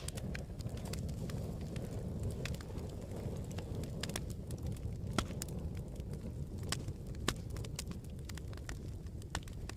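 Campfire burning with a steady low rumble and sharp, irregular crackles and pops of the burning wood.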